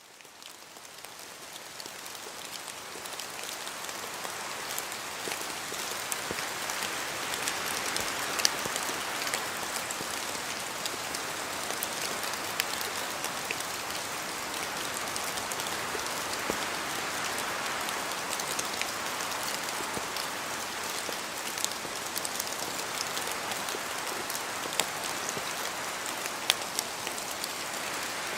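Rain falling in a spruce forest: a steady hiss of rain with many single drops tapping close by, and wind in the trees swelling and easing. It fades in over the first few seconds.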